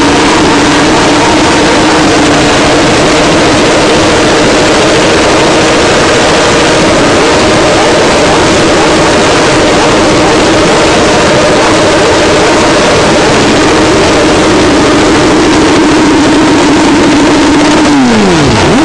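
1000cc motorcycle engine held at steady high revs during a burnout, loud, with a rough haze of noise over the engine note. About a second before the end the revs drop sharply and come straight back up.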